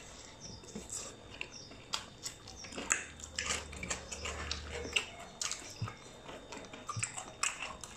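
Mouth sounds of people eating with their hands: chewing and lip smacks, heard as short irregular clicks.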